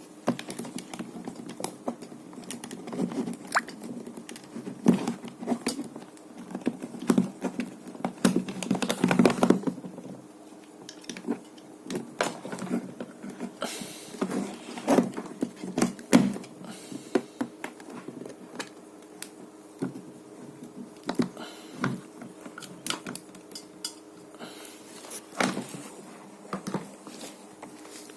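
Irregular clicks, taps and knocks of objects being handled, thickest in the first ten seconds and sparser after, over a steady low hum.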